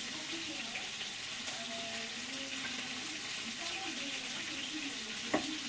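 Onions and tomatoes frying in hot oil in a pan, a steady sizzle, with a sharp knock near the end.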